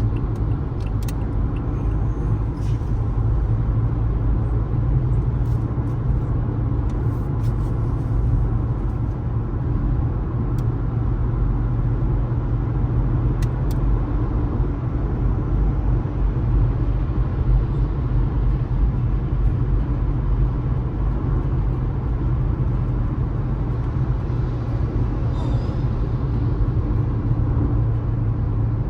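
Car driving steadily at road speed: a constant deep rumble of engine and tyre noise, with a few faint ticks.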